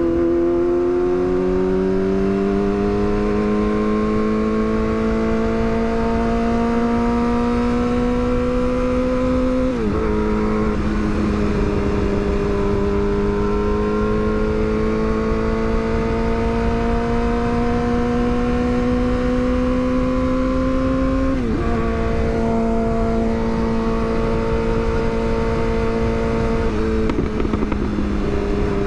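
Yamaha R6's inline-four engine pulling steadily under gentle acceleration, its revs climbing slowly and dropping sharply at upshifts about ten, twenty-one and twenty-seven seconds in. A steady rush of wind and road noise sits underneath.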